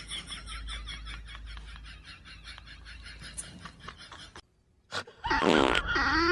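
A quick run of short, evenly repeated cries, about five a second, fading away over about four seconds; then, after a brief break, a loud, wavering wail near the end.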